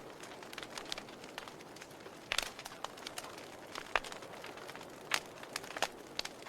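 Campfire burning, the wood crackling with irregular sharp pops over a soft hiss of flame, a few pops standing out louder.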